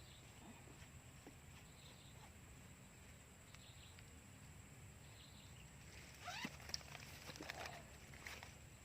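Near silence: quiet outdoor ambience with a faint steady high-pitched tone and a few faint short chirp-like sounds about six to eight seconds in.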